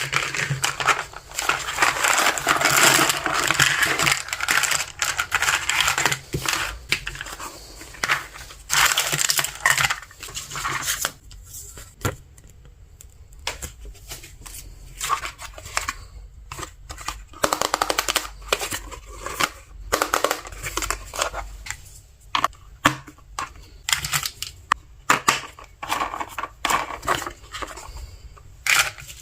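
Plastic packaging crinkling and rustling for about the first ten seconds. After that, scattered sharp clicks and taps of small plastic toy pieces being handled, with brief rustles.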